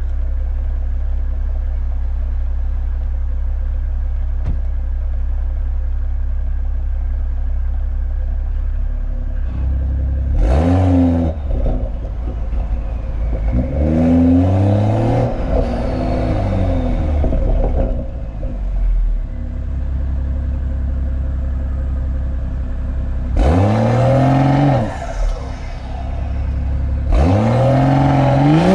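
BMW M340i's B58 turbocharged straight-six exhaust idling steadily, then revved four times. Each rev climbs and drops back within a second or two, and the last one is still rising at the end.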